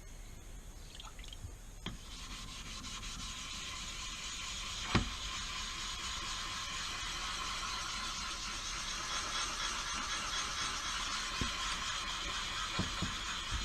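Knife blade being worked on a wet whetstone: a steady gritty scraping hiss that starts about two seconds in and cuts off abruptly at the end, with a sharp tap about five seconds in.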